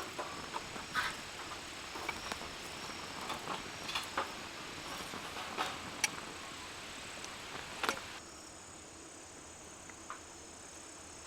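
Steady high insect chirring with scattered sharp clicks and crackles. The background hiss drops away about eight seconds in.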